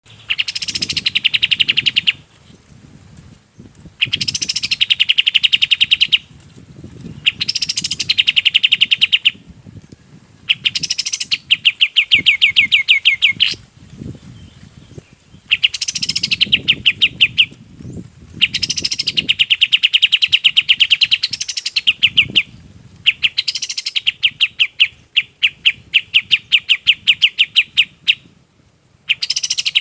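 Kapas tembak songbird singing in repeated phrases, each opening with a sharp upward-sweeping note and running into a fast, even trill of many quick notes, the phrases a second or two long with short pauses between, one near the end running about five seconds.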